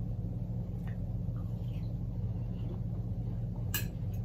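Chewing on a mouthful of watermelon, with faint small mouth clicks, over a steady low hum. Near the end comes one sharp click as a spoon goes into a halved grapefruit.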